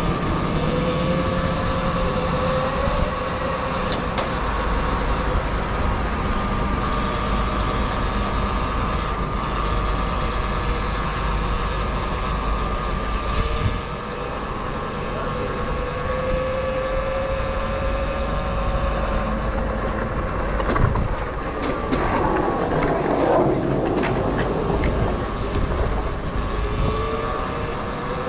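Sur Ron electric dirt bike riding along, its motor whine drifting in pitch with speed, then dropping sharply and climbing back near the end as the bike slows and speeds up again. A low rumble of wind lies under it.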